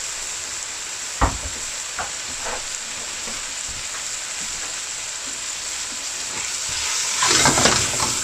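Curry spice mix with water and tomato sizzling in a pan with a steady hiss. A spoon knocks once on the pan about a second in, and louder stirring and scraping comes near the end.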